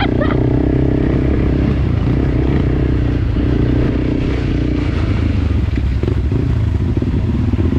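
Enduro dirt bike engine running at fairly steady revs, its pitch shifting a few times.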